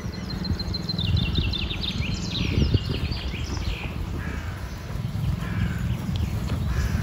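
A songbird sings a fast series of high notes falling in pitch, ending in a flourish about three seconds in, with fainter calls after. Under it, wind rumbles low and unevenly on the microphone.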